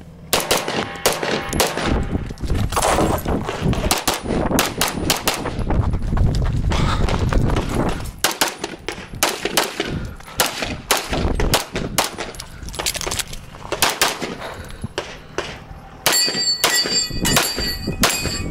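Limcat Open-division 9mm Major race pistol firing rapid strings of shots, with brief pauses between strings. Near the end, steel targets ring as they are hit.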